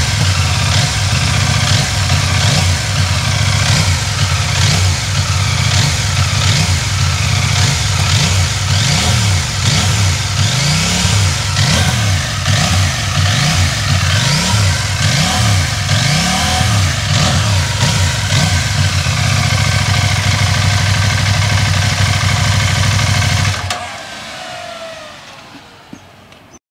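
A CFMOTO 800MT Explore Edition's parallel-twin engine revved through its exhaust in repeated throttle blips, about one a second. It then settles to a steady idle and is switched off near the end, with a faint falling whine dying away afterward.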